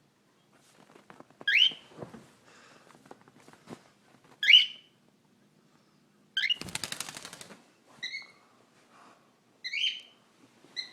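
Pet bird chirping: short sharp chirps every two to three seconds, with a rapid rattling trill lasting about a second, about six and a half seconds in.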